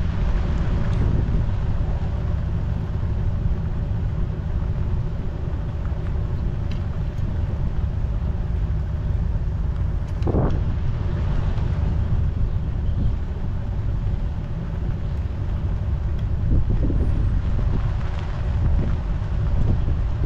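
Wind buffeting the microphone, a steady low rumble, with a brief louder sound about ten seconds in.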